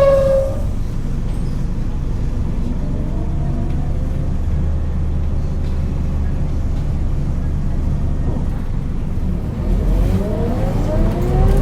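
Scania DC9 9-litre six-cylinder diesel engine of a 2001 Scania L94UB bus, heard on board, running with a steady low rumble. About ten seconds in, its pitch rises as the bus accelerates through its ZF automatic gearbox. A steady high tone cuts off just at the start.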